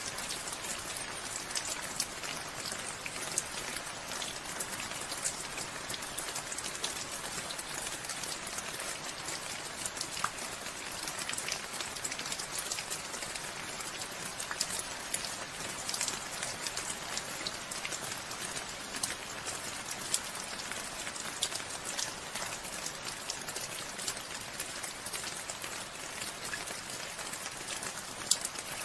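Steady rainfall, an even hiss of rain with many sharp drop ticks pattering on surfaces throughout.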